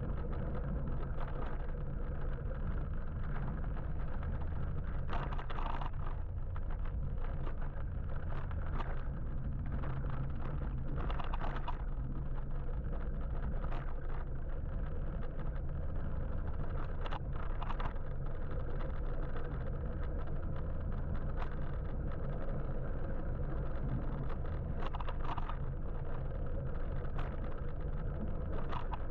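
Steady low rumble of wind and road noise from riding an electric motorbike through city traffic, with a few short, sharper sounds now and then.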